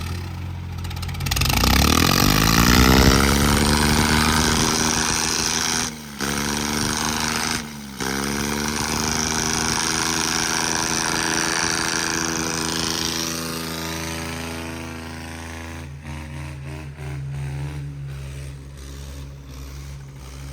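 Tractor diesel engine revving up hard about two seconds in and held at high revs under heavy pulling load, breaking off briefly twice, then easing down toward the end.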